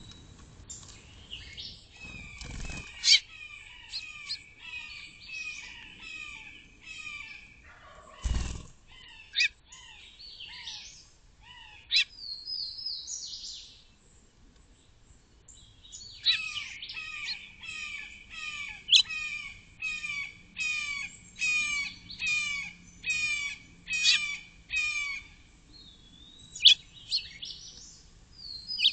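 Small birds chirping in rapid repeated series of about two notes a second, with a pause partway through, which the uploader takes for birds reacting to danger. A low thump comes about a third of the way in.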